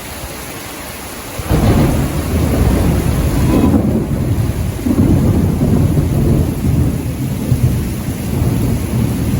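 Heavy rain hissing, then about a second and a half in a loud clap of thunder breaks into a long, deep rolling rumble that swells and eases over the rain; the thunder is reckoned to be about 3 miles away.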